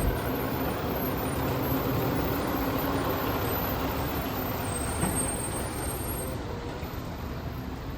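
Diesel garbage truck engine running with a steady rumble that slowly fades as it moves away.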